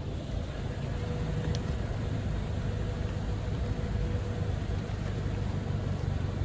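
Toyota Innova Crysta's 2.7-litre four-cylinder 2TR-FE petrol engine idling steadily.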